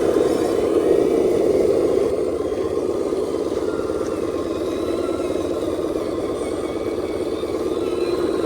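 Radio-controlled scale dump truck driving, its motor and drivetrain running steadily, a little louder for the first two seconds.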